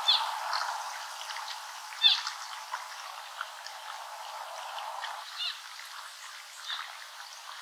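Wild birds calling: short, sharp, high calls every second or two over a steady hiss, with fainter chirps scattered between them.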